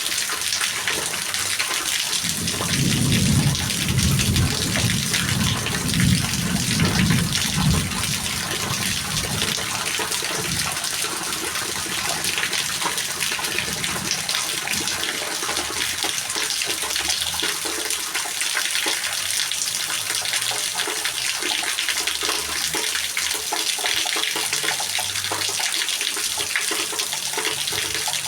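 Rain falling steadily, an even hiss without a break. From about three to eight seconds in, a low rumble swells beneath it and then fades.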